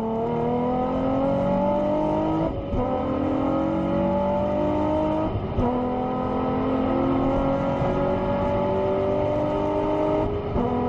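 Nissan 350Z's V6 engine, heard from inside the cabin, accelerating hard at motorway speed. Its pitch climbs steadily and drops at upshifts about two and a half and five and a half seconds in, and again near the end.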